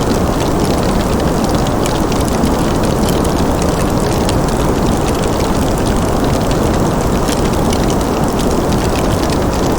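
Fireplace fire crackling: many small, sharp crackles scattered over a steady, low rushing noise.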